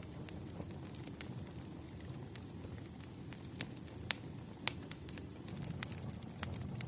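Firewood burning and crackling: a low, steady rush under sharp, irregular pops, about a dozen of them, the loudest a little past four seconds in.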